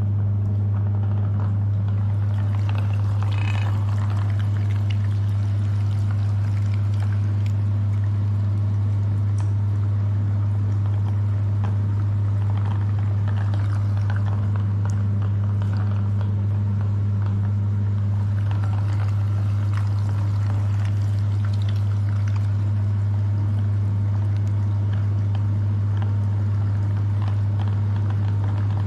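Electric meat grinder running with a steady low hum, with softer irregular noises over it as material is pushed through.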